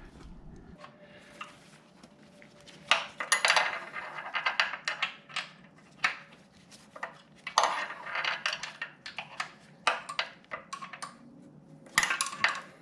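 Metal hand tools clinking and rattling in bursts of sharp clicks, loudest about three seconds in, again near eight seconds and just before the end.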